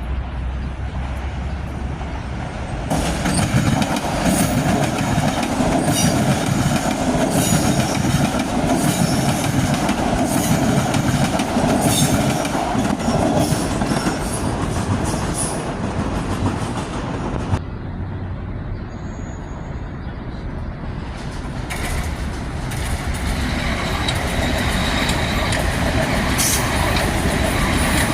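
Metro-North commuter train passing on the rails, its wheels clicking over the rail joints. It gets louder about three seconds in, eases off for a few seconds past the middle, then builds again near the end.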